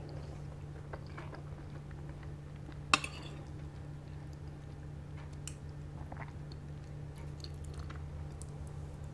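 A person chewing food close to the microphone, with small mouth sounds and light clicks of cutlery. There is one sharp clink about three seconds in, and a steady low hum runs underneath.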